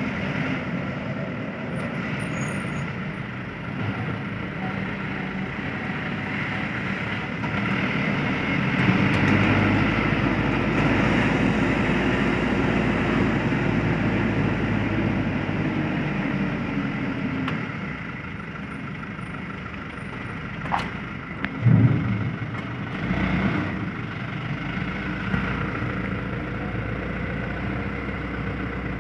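Truck engine running while driving, its note swelling up and easing off once in the middle. A short loud sound with a falling pitch comes about three-quarters of the way through.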